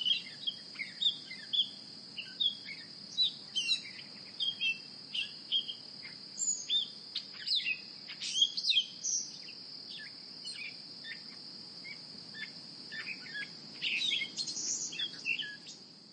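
Birds chirping and calling, many short quick chirps overlapping throughout, over a steady high-pitched insect-like drone and a low background hum.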